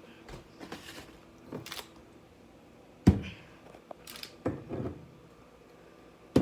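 A few separate sharp knocks and clicks of objects being handled, the loudest about three seconds in and another near the end, with softer thumps in between.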